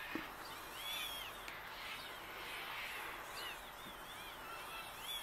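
Faint steady hiss with a few high, arching chirps, like a small bird calling: one near the start and a run of several in the second half.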